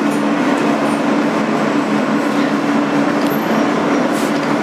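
Inside a 2008 Kawasaki R-160B New York subway car: a steady, even rumble of car noise with a constant low hum running through it.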